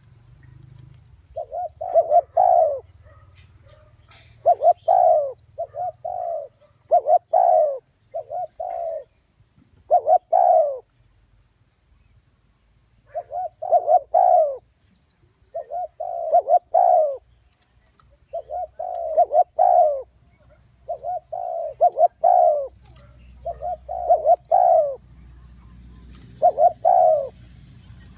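Spotted dove cooing: its call repeated over and over in short phrases of two or three coos every two to three seconds, with a longer pause about halfway through. It is a decoy call used to draw wild spotted doves to a trap.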